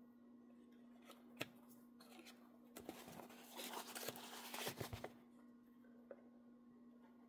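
Scissors cutting fabric: a single snip, then about two seconds of close snipping and rustling, over a faint steady hum.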